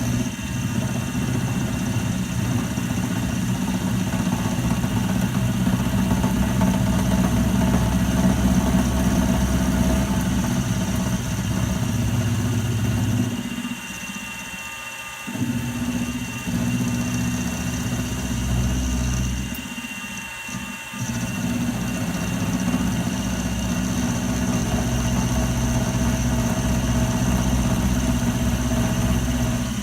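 Milling machine running steadily while milling down the body of a lathe knurling tool, a steady low motor hum with a faint higher whine. About halfway through, and again a few seconds later, the low hum briefly drops away and then comes back.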